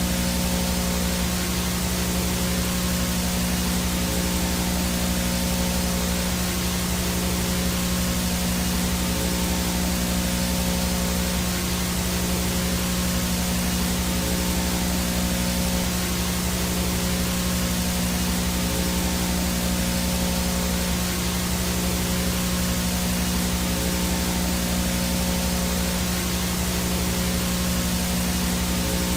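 VHS static from a no-signal analog video feed: a steady hiss across the whole range with a steady low buzz underneath.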